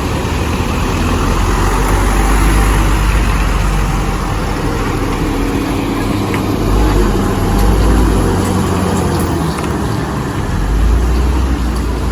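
Heavy road traffic passing: trucks and buses on a steep mountain road, their engines rumbling with tyre noise, swelling a few times as vehicles go by.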